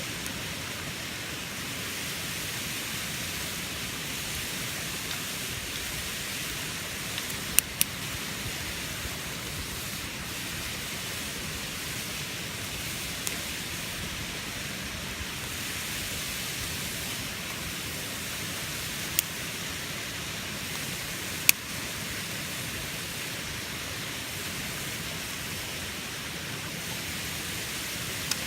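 Bacon and eggs frying in a pan over a campfire: a steady sizzle with a few sharp pops.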